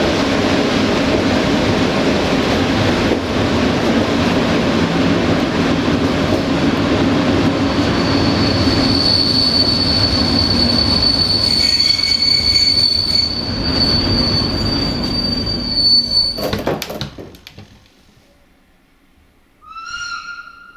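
Passenger train running on the rails with a steady rumble; about eight seconds in, a high, steady wheel squeal sets in as the wheels take a curve, lasting several seconds. Near the end the running noise falls away abruptly, and a brief pitched tone follows.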